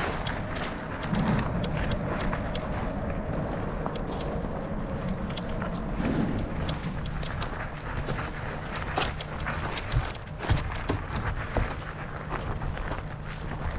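Footsteps crunching and clicking irregularly over loose rocks and gravel, over a steady low rumble.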